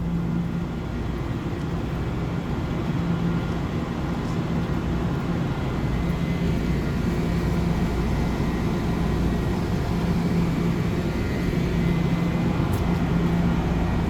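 Metro-North commuter train standing at the station platform, giving a steady rumble and hum with a few constant tones.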